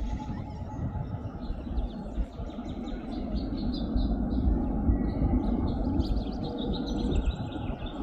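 Small songbirds chirping in quick, repeated high notes over a steady low rumble.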